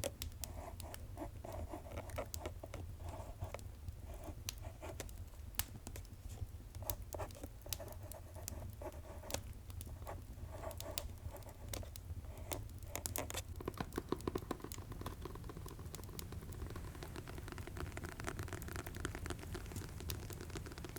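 Wrapping paper crinkling and rustling as a gift is wrapped, over scattered sharp fireplace crackles and a low steady hum. About 14 seconds in this gives way to a run of fast tapping.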